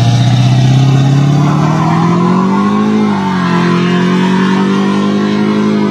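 2002 Chevrolet Silverado 2500HD's 6.6-litre Duramax diesel V8 accelerating hard through an MBRP aftermarket exhaust. The pitch climbs steadily, drops at an upshift about three seconds in, then holds steady.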